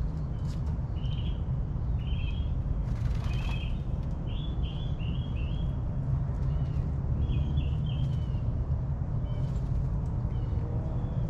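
Backyard birds chirping in short, repeated phrases over a steady low rumble.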